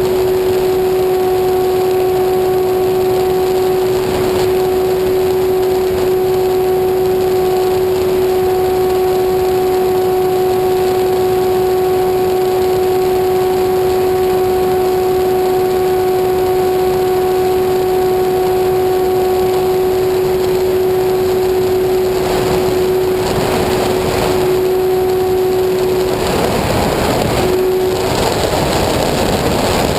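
An engine running at a steady speed, giving a constant even-pitched hum. In the last few seconds a broad rushing noise grows louder and the hum cuts out.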